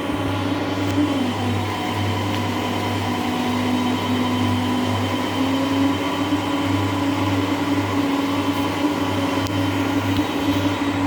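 Whirlpool washing machine on its spin cycle: a steady motor hum with a whine that drops slightly in pitch about a second in and climbs back about five seconds in.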